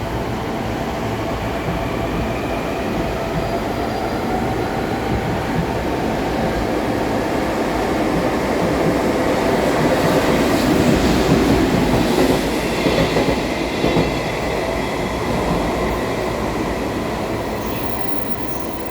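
JNR EF81 electric locomotive and two hopper wagons passing through at speed: a steady rumble of wheels on rail that builds, peaks with a few sharp clacks as the wheels cross the rail joints, then fades as the train moves away.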